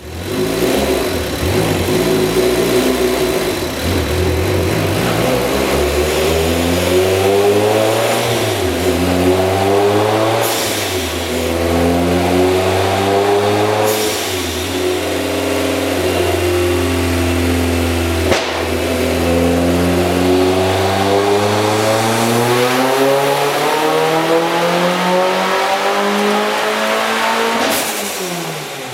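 Turbocharged 2.5 L four-cylinder engine of a Mazda MX-5, with a Garrett GTX2971R turbo and 3-inch exhaust, revving up under throttle on a chassis dyno. It climbs in pitch in several stretches split by sharp pops, with one long climb in the last ten seconds before the revs fall away at the end.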